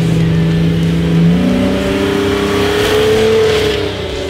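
Off-road Jeep Wrangler engine revving under load as the vehicle climbs a muddy, rutted track. The revs rise about a second and a half in, hold, then drop off near the end.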